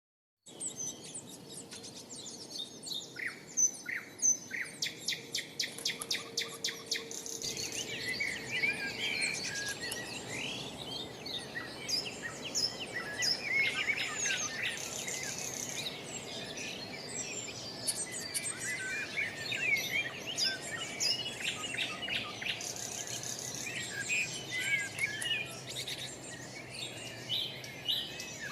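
Several songbirds chirping and singing at once in a dense chorus of short high calls and trills, with a rapid run of repeated notes about three seconds in.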